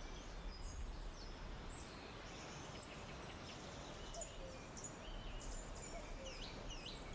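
Forest ambience: several small birds chirping in short, quick calls and trills, over a steady low background rumble.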